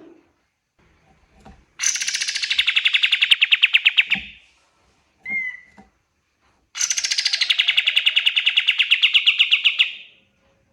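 Kapas tembak songbird singing two long, rapid trills of about three seconds each, getting louder toward the end, with a short single note between them.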